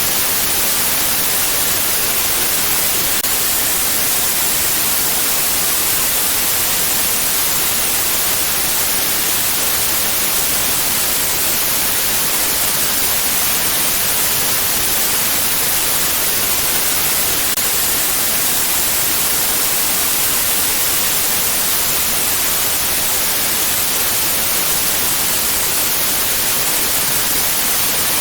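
Steady white noise: an even, unchanging hiss that is strongest in the treble.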